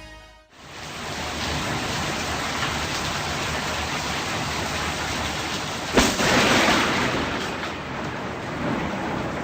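Heavy rain falling steadily, with a sharp thunderclap about six seconds in followed by a brief louder rush.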